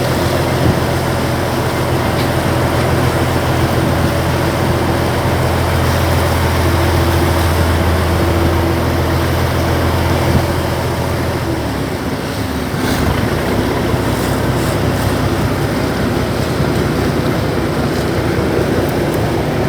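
Cross-river ferry boat's engine running steadily under way, with water rushing and wind on the microphone. About twelve seconds in, the engine note drops and shifts to a different pitch as the boat slows toward the pier.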